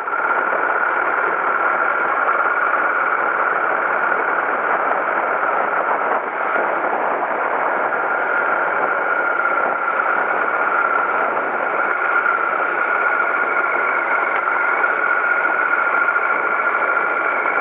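Steady engine drone with a constant high whine, running unchanged throughout apart from a brief dip about six seconds in.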